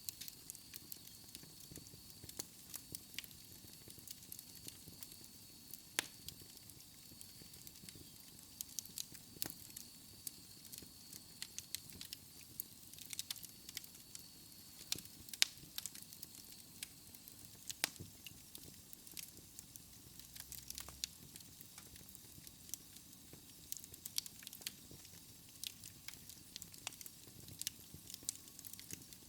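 Wood fire in a fireplace crackling, with irregular sharp pops and snaps over a soft steady hiss. A faint thin high tone runs under it through about the first half.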